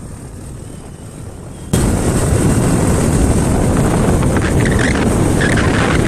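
Wind and road noise from a moving vehicle, with wind buffeting the microphone. It jumps suddenly much louder about two seconds in and then stays steady.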